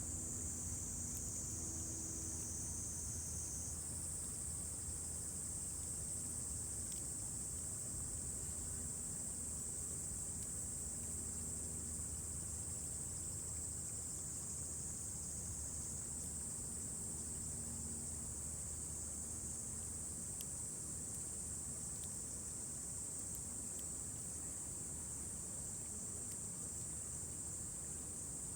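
Evening insect chorus: a steady, high, continuous trill of crickets, with a faint low hum beneath it and a few faint clicks.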